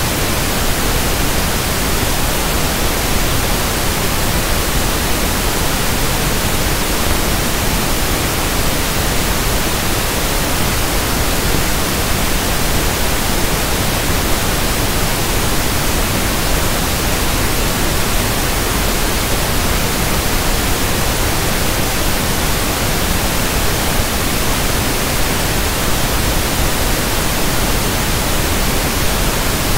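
Electronically generated pink noise (1/f noise): a steady, even hiss across the whole range, with no change in level.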